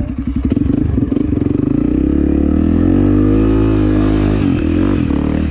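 Off-road motorcycle engine running and revving: its pitch climbs from about two seconds in, then drops back around four and a half seconds.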